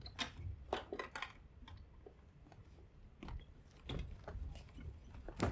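Scattered faint knocks and scuffs, a dozen or so irregular taps, of people moving about on a stage, typical of shifting desks and chairs and footsteps.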